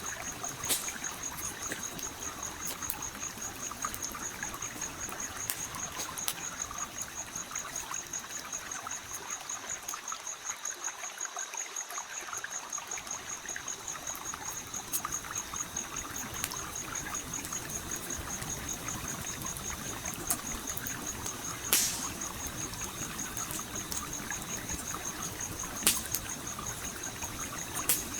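A stream flowing steadily, mixed with a campfire crackling in scattered sharp pops and snaps; the loudest pops come in the second half. A steady, high-pitched pulsing tone sits above them.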